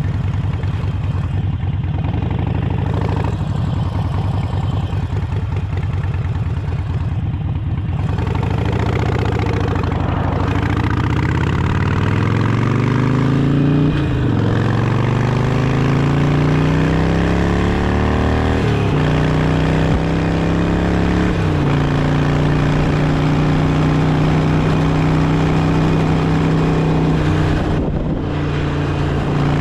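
Harley-Davidson Sportster's V-twin engine pulling at low revs, then accelerating through three upshifts, its pitch climbing and dropping back at each shift, before settling into a steady cruise.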